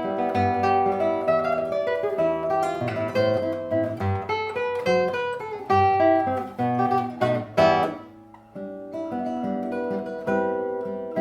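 Solo guitar playing a waltz: a plucked melody over chords, with several strong struck chords, then the sound dies away briefly about eight seconds in before softer playing resumes.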